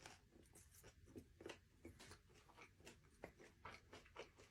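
Faint, irregular crunching and chewing of spicy tuna crispy rice, a few soft crackles a second.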